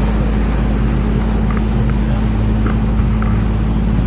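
Canal tour boat's motor running steadily, a continuous low hum.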